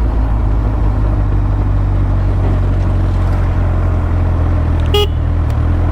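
Motorcycle engine running at steady cruising speed under a heavy rush of wind noise, a steady low drone. A brief high blip about five seconds in.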